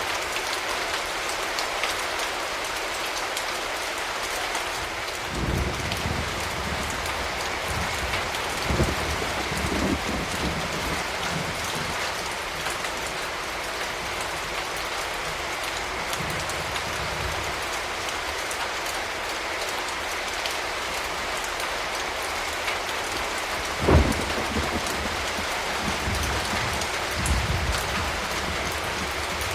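Steady rain hissing on surfaces, with occasional low rumbles and thuds underneath; the sharpest and loudest comes about three-quarters of the way through.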